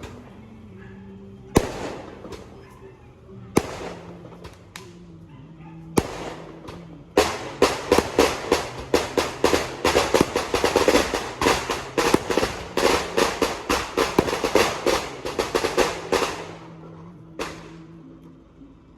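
Firecrackers going off: a few single sharp bangs a couple of seconds apart, then a long rapid string of cracks lasting about nine seconds, and one more bang near the end. Music with held notes plays underneath.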